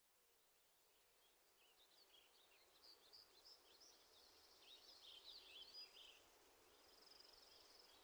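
Faint outdoor birdsong: several birds giving quick high chirps and twitters, busiest in the middle, then a brief steady high trill near the end.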